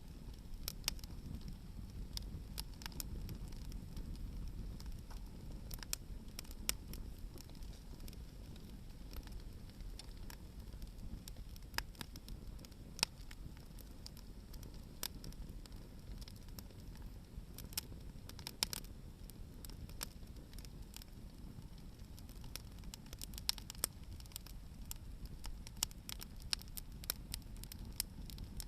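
Campfire of hardwood firewood burning, crackling with irregular sharp pops, a few louder than the rest, over a steady low rumble.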